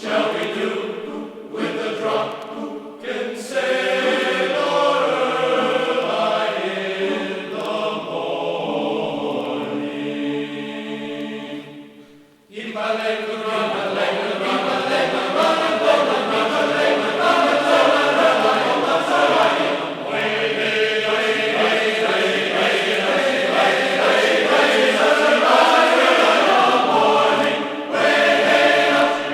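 Background music: a choir of voices singing, with a short break about twelve seconds in before the singing starts again.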